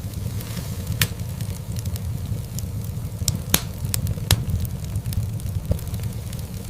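Wood fire in a fireplace crackling, over a steady low rumble of the flames. Scattered small snaps, with three louder pops about one, three and a half and four seconds in.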